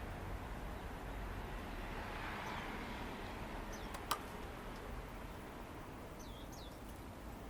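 A few faint, short high chirps from a small bird, two of them close together near the end, with one sharp click about four seconds in, over a steady low background hum.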